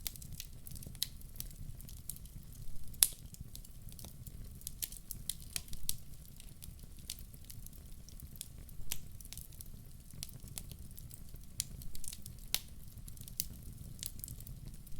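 Wood fire in a fireplace crackling: irregular sharp pops and snaps over a low steady rumble, the loudest pops about three seconds in and again near the end.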